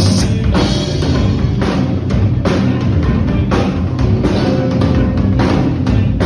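A rock band playing, with drum-kit strikes over a steady bass line; a cymbal crash rings at the very start.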